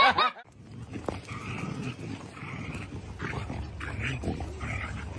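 A dog vocalizing in a run of short, repeated grumbling bursts, after a louder sound cuts off in the first half second.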